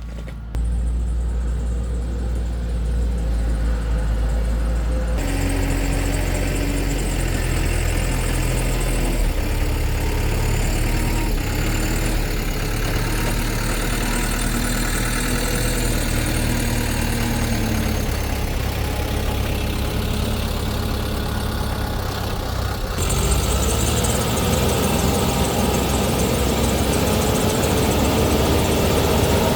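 Heavy construction machinery's diesel engine running steadily with a low rumble. The sound shifts abruptly about five seconds in and again about twenty-three seconds in.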